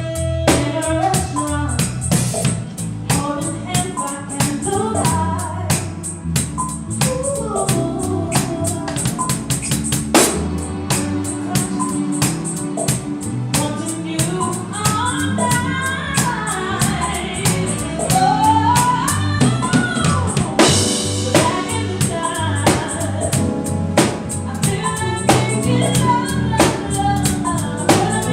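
A live band playing with a singer, drums and tambourine keeping a steady beat under a melodic vocal line.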